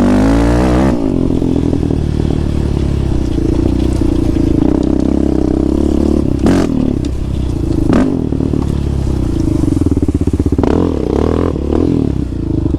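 ATV engine running while riding along a trail, its pitch rising and falling with the throttle. Two sharp knocks come through, about six and a half and eight seconds in.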